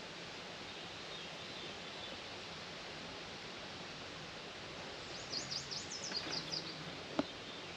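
Songbird singing outdoors over a steady wash of rural background noise: faint chirps about a second in, then about five seconds in a rapid series of high, sharp down-slurred notes lasting under two seconds. Near the end a single sharp click, the loudest sound.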